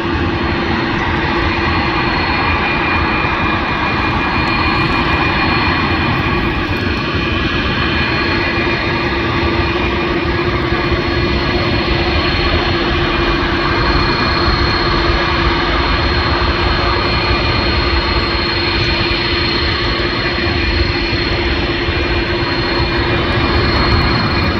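Airbus A330's jet engines running loud and steady: a constant dense roar with a few held whining tones, neither rising nor falling.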